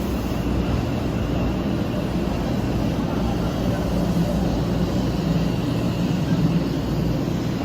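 Shinkansen train running, heard as a steady, even rumble with no breaks.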